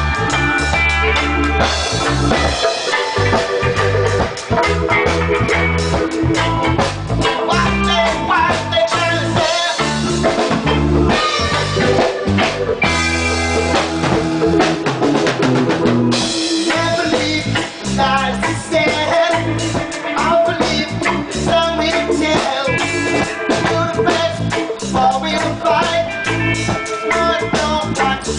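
Live reggae band playing, with drum kit, guitar and a heavy bass line.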